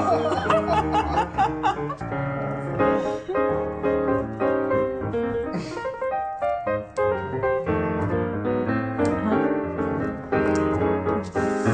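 Background piano music, note following note throughout.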